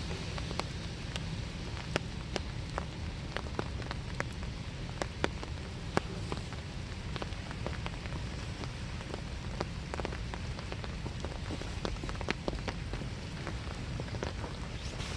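Steady winter rain falling, with a constant hiss and many separate drops landing close by in sharp, irregular clicks, a few of them louder.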